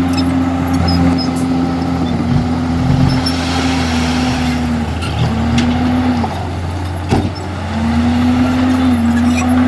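Komatsu bulldozer's diesel engine running under load, its note sagging and recovering several times as it pushes, with one sharp metallic knock about seven seconds in.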